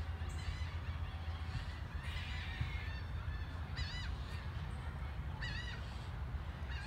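A bird calling twice, short wavering high calls about four and five and a half seconds in, over a steady low rumble.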